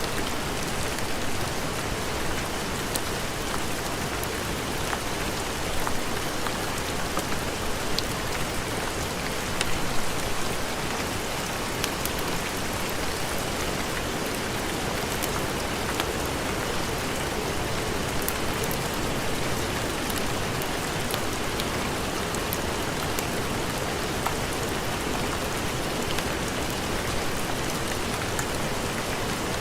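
Steady heavy rain, an even hiss dotted with sharp ticks of individual drops, swelling briefly about six and ten seconds in.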